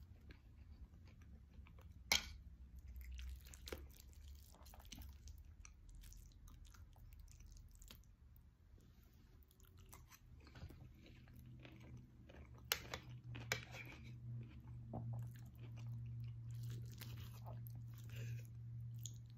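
A person chewing and biting food, with many small crunchy ticks. There is a sharp click about two seconds in and two more about two thirds of the way through, over a low steady hum.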